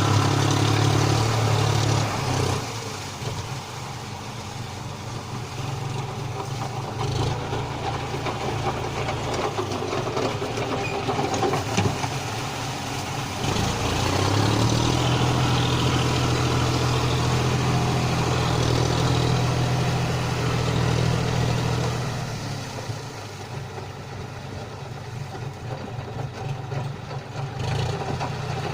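John Deere four-wheel-drive tractor's diesel engine running while working in mud. Its steady note is louder for the first two seconds and again through the middle to about three-quarters of the way in, easing off in between.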